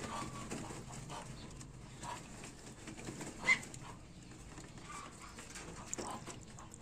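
Newly hatched ducklings peeping in short, scattered calls, the loudest about three and a half seconds in, with small clicks between them.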